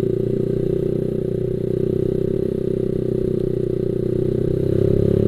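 Motorcycle engine running at a steady speed while riding, a little louder near the end.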